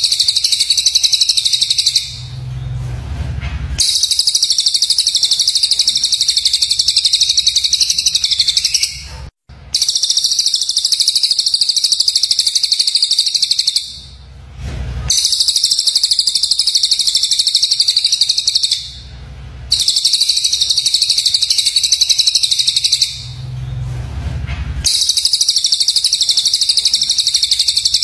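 Songbird giving dense, rapid, high-pitched harsh chattering in long bursts of several seconds. The bursts are separated by pauses of a second or two and repeat about six times, as on a looped bird-tutor recording.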